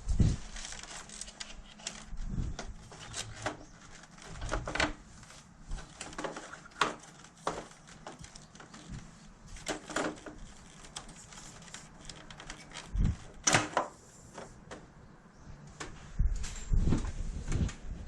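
Irregular clicks, taps and knocks of hard parts being handled, with a few heavier thumps about two-thirds of the way in and near the end.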